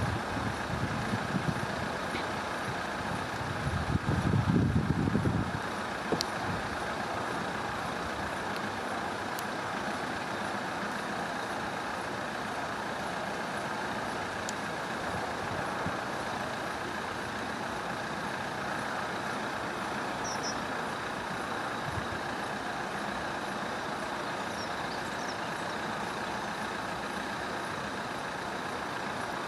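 Steady hiss of a hail and rain shower, with a few low rumbles in the first six seconds and a few faint ticks. Two faint high chirps come later on.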